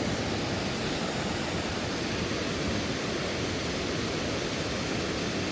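Water rushing steadily over a shallow river waterfall.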